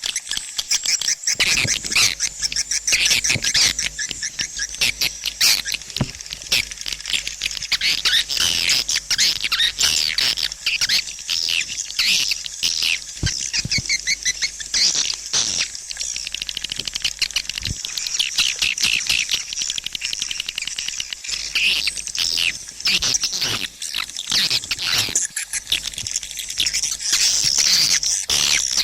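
Swiftlet calls as used for swiftlet-house lure sound: a dense, unbroken twittering of many high chirps and rapid clicks, like a roosting colony.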